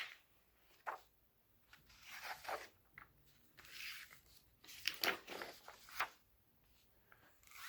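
Faint rustling and handling of a picture book's paper pages as they are turned, with a few soft clicks.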